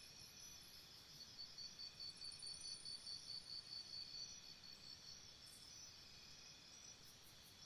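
Faint crickets chirring in steady high trills. From about a second in to about four seconds, one chirp pulses louder at roughly three pulses a second.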